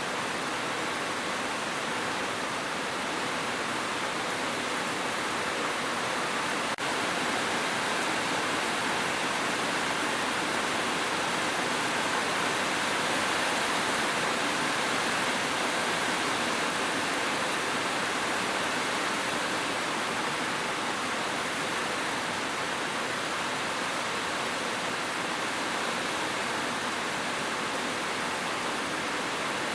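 Steady rain, an even rushing hiss with no separate drops standing out, and one faint click about seven seconds in.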